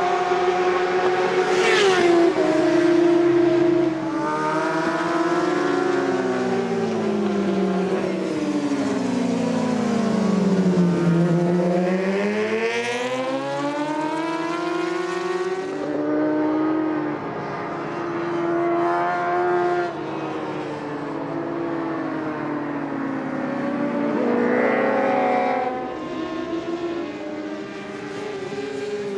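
Superbike racing motorcycle engines at high revs, the pitch falling as the bikes brake into corners and rising again as they accelerate out, with several bikes heard over the course.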